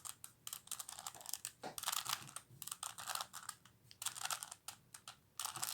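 A 3x3x3 Rubik's cube being twisted through a move sequence: bursts of rapid plastic clicking as the layers turn, with short pauses between the bursts.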